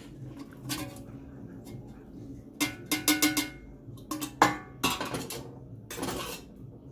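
A spoon scraping and clanking against a pot as penne pasta is stirred into a thick cream sauce. The clatters come irregularly, the busiest around three seconds in and the sharpest about four and a half seconds in.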